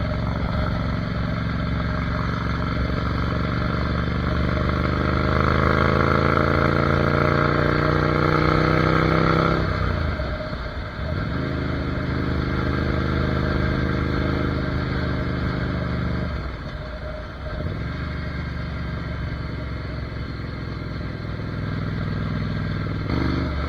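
Ducati Monster 797's air-cooled L-twin engine under way: the revs climb steadily for several seconds, then drop sharply, about ten seconds in and again about seventeen seconds in, before running steady at a lower pitch.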